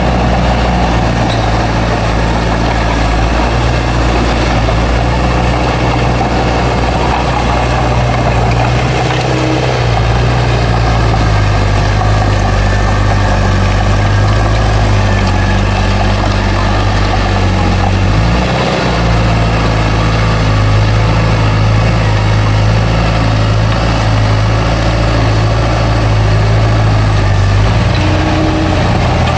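Heavy diesel engine of an earthmoving machine running steadily. Its note shifts about ten seconds in and dips briefly a little past halfway.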